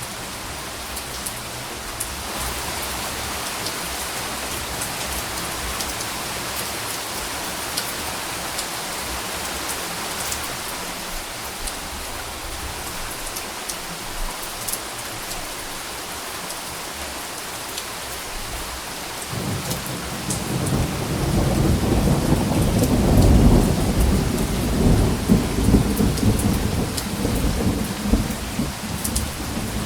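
Steady rain, with individual drops ticking. About two-thirds of the way in, a low rumble of thunder builds and rolls on, loudest a few seconds after it starts.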